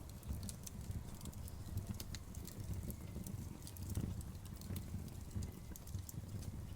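Outdoor bonfire crackling: a low, steady rumble of flames under an irregular scatter of small, sharp pops and snaps.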